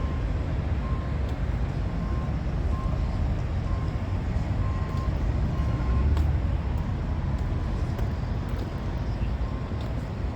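Steady low rumble of diesel truck engines running, with a faint beep repeating now and then.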